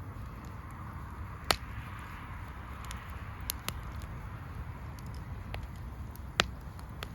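Campfire crackling: burning wood giving off scattered sharp pops, the two loudest about a second and a half in and near the end, over a steady low rumble.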